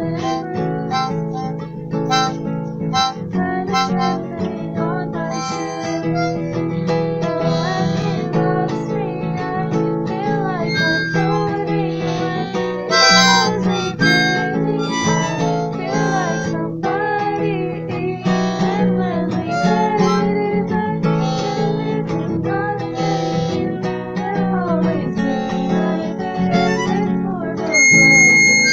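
A harmonica playing a melody over acoustic guitar, with sustained and bent notes and a high held note near the end.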